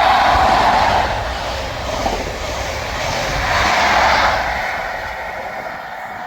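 Scotrail High Speed Train with class 43 power cars passing through the station without stopping: loud rumble and rail noise that fades away after about four and a half seconds as the train moves off.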